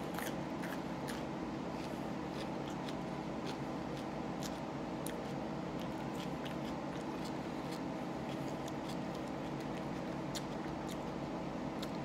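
A person chewing raw jalapeño pepper, with scattered crisp, wet mouth clicks over a steady background hum.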